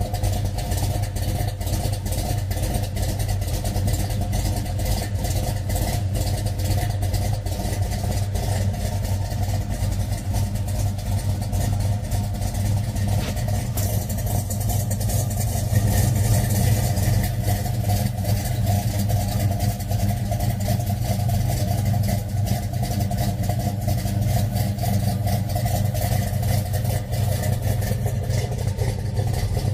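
A muscle car's engine running at a steady idle with a deep, even rumble, getting a little louder for a couple of seconds about halfway through.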